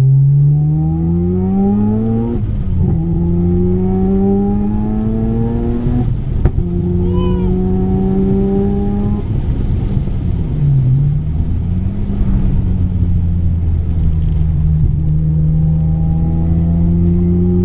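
Single-turbo Mazda RX-7 FD3S's 13B twin-rotor rotary engine under hard acceleration on track. Its pitch climbs and drops at two upshifts in the first six seconds, with a faint high whine rising along with each pull. A sharp crack comes about six and a half seconds in, and the engine then holds a steadier pitch with a brief dip near eleven seconds.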